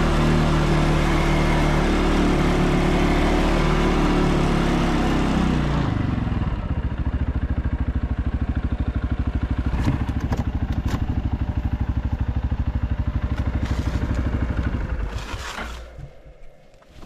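ATV engine running at speed, then dropping to a slow, even low putter about six seconds in. The engine sound fades out near the end, leaving a few sharp clicks.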